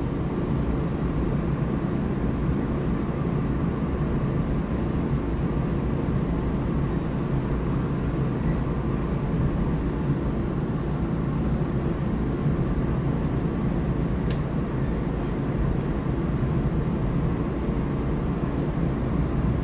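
Steady low running rumble inside the passenger cabin of a Taiwan Railway EMU3000 electric multiple unit moving along the track. Two faint ticks come about two-thirds of the way through.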